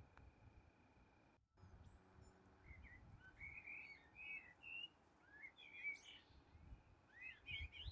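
Small songbirds singing faintly in quick, chirpy phrases that begin about two and a half seconds in, over a faint low rumble.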